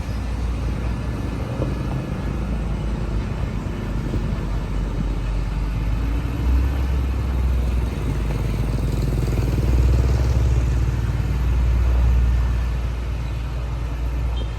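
Heavy diesel earthmoving machinery running with a steady low rumble, growing a little louder about two-thirds of the way through.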